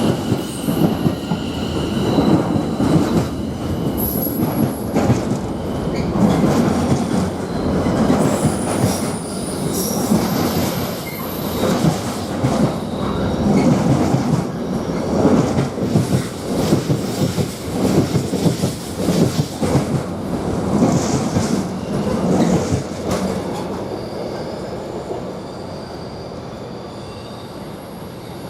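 Greater Anglia Class 720 electric multiple unit pulling into the station: wheels clattering over the rails, with thin high squeals from the wheels and brakes. It quietens over the last few seconds as the train slows to a stop.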